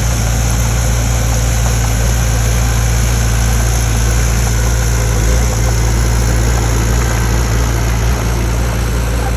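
Heavy engine idling steadily, a constant low drone.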